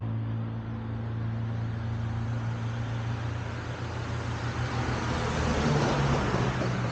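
Motor vehicle running, a steady low hum with road noise that grows louder about five to six seconds in.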